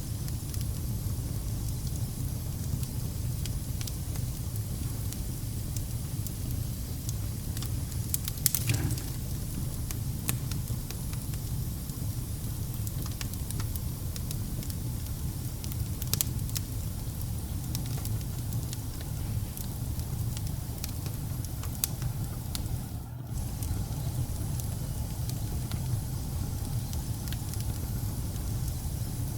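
Wood fire burning in a fireplace, with a steady low rumble of flames under scattered sharp crackles and pops. There is a short flurry of pops about a third of the way in.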